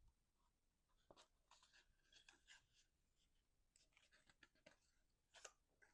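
Near silence with faint, scattered rustles and light taps of cardstock paper being handled.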